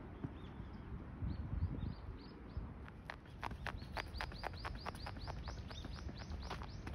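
A small bird calling: short high chirps, each dropping in pitch, a few scattered at first, then a fast, even run of about five a second over the last four seconds, over a faint low rumble.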